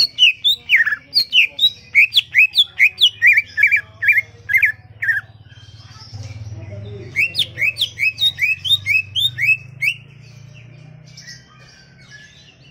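Cucak ijo (green leafbird) singing vigorously in two runs of sharp, slurred whistled notes at about three notes a second, with a pause of about two seconds between them; this is the loud 'gacor' song used as a lure to set caged birds singing. A faint steady low hum runs underneath.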